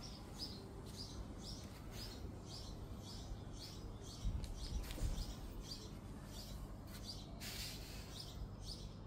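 A small bird chirping over and over, about two short high chirps a second, over a faint low background hum, with a few soft bumps about halfway through.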